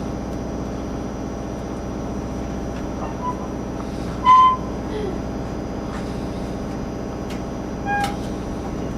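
Excursion train running with a steady rumble, broken by a few short, high squeaks; the loudest comes about four seconds in and another near the end.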